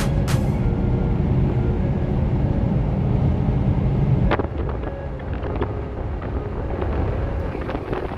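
A car on the move, with heavy low rumble from the engine and road. A sharp knock about four seconds in, after which the rumble is somewhat quieter.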